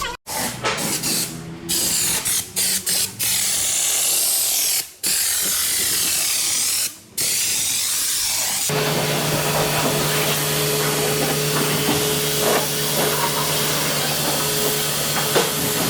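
Workshop tools: a sharp hiss in bursts with brief pauses, then, from about nine seconds in, a steady machine hum under continuous hiss.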